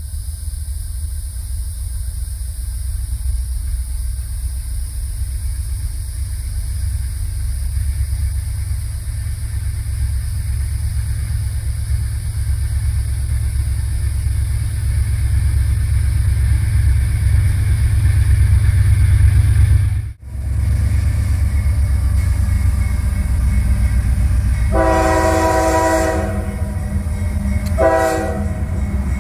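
CSX freight train led by a GE diesel locomotive approaching: a low rumble grows steadily louder, then the locomotive's chime horn sounds one long blast and, about two seconds later, a short one.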